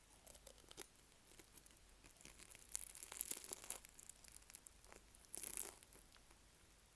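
Close-miked crisp crackling and tearing as a McDonald's beef stew pie with flaky pastry is handled and bitten, with two louder spells about three seconds and five and a half seconds in.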